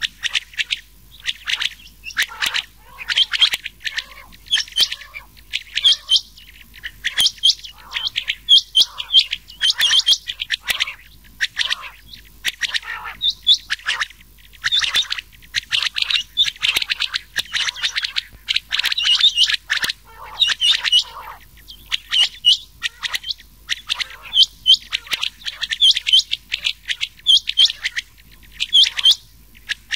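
Rain quail and quail calls mixed together as a hunting lure: a dense run of short, high, repeated call notes with brief pauses between bursts.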